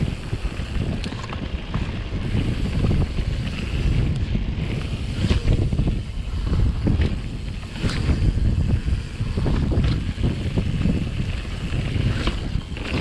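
Wind buffeting a GoPro's microphone at speed, with a downhill mountain bike rattling over rocks and several sharp knocks scattered through.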